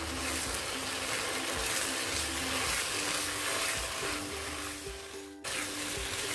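Sarson ka saag with butter sizzling in a pan as it is stirred with a wooden spatula, over quiet background music with a simple melody. The sound breaks off sharply a little after five seconds in, then resumes.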